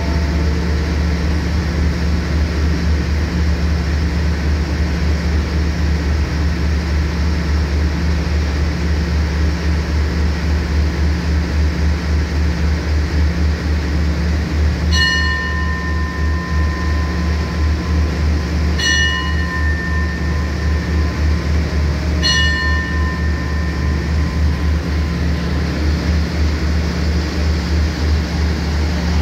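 Diesel train running steadily at the platform with a constant low hum. About halfway through, a station bell is struck three times, a few seconds apart, each strike ringing out and fading.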